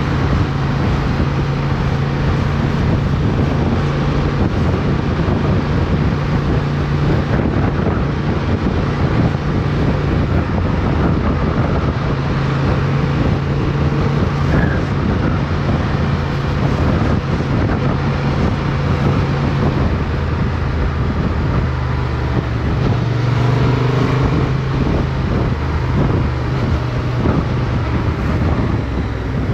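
Motorcycle engine running at a fairly steady road speed, heard from on board, with wind and road noise on the microphone. The engine note shifts slightly in pitch now and then but holds mostly even.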